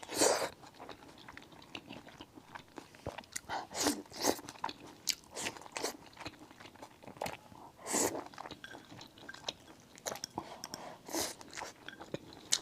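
Close-miked chewing and biting of food, with irregular crunches and wet mouth sounds.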